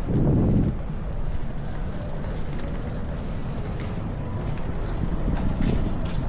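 Strong wind buffeting the microphone as a low, rumbling roar, loudest in the first second and then easing a little.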